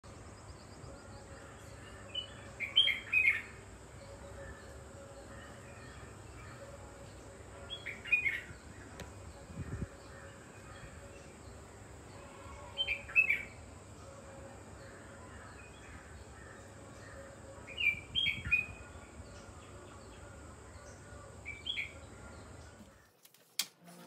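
Songbird calling: a short cluster of bright chirps repeated five times, about every five seconds, over a steady outdoor background hiss.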